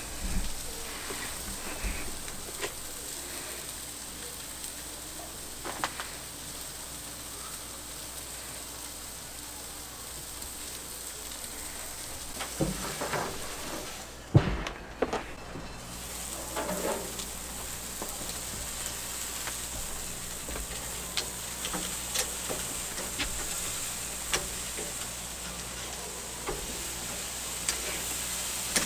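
Pork chops sizzling over direct charcoal heat on a charcoal grill: a steady hiss with scattered pops and crackles. A few louder knocks come about halfway through.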